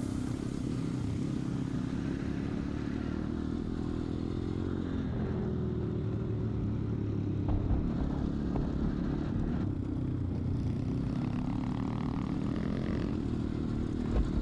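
Vehicle engine running steadily while driving, its note rising briefly about four to five seconds in, with a few short knocks and rattles from the ride.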